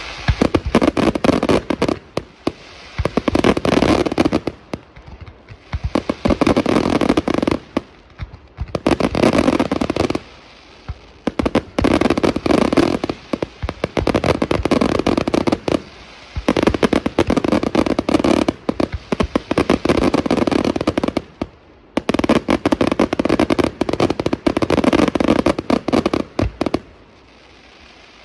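Fireworks display going off in rapid volleys: dense runs of sharp bangs and crackles lasting a few seconds each, broken by short lulls about every three to five seconds.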